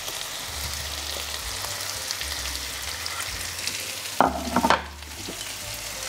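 Steady sizzling of potato chunks, pork fat and onions frying in a hot pan on maximum heat, with a brief louder sound about four seconds in.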